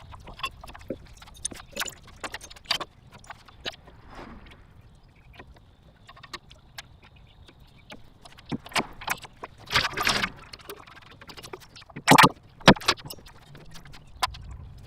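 Sped-up workshop noise: irregular clinks, clicks and knocks of hand tools and metal parts during engine removal. The loudest part is a dense clatter about two-thirds of the way through, followed by two hard knocks.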